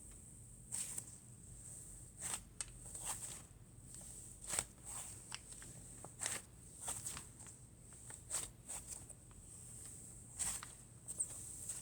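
Cloud slime being stretched and squished by hand, giving irregular short crackles and pops, about one every second or less.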